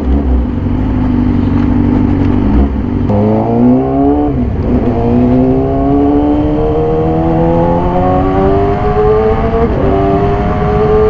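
2014 Yamaha YZF-R6's inline-four engine with an SC-Project exhaust, accelerating hard. The revs climb through the gears, with an upshift about four and a half seconds in and another near the end.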